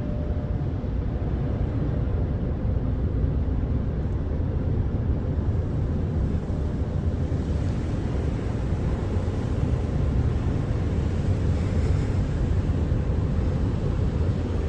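Steady rushing rumble of a car wash tunnel heard from inside the car: water spraying onto the car over running wash equipment, a little brighter after about six seconds.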